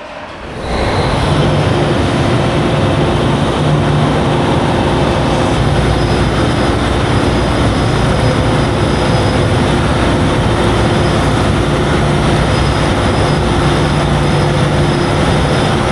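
Heavy diesel engine running loud and steady, the sound rising sharply about a second in.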